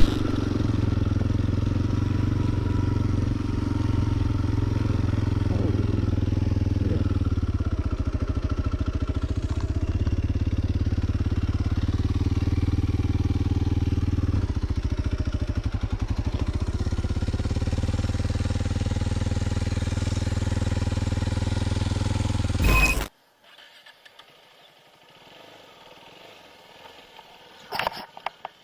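Motorcycle engine running at a steady, even pitch, then stopping abruptly about 23 seconds in, leaving only a few faint clicks.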